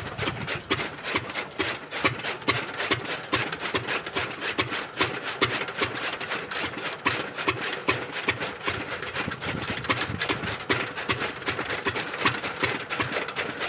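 Pumpset engine running a chaff cutter, a fast, even mechanical clatter.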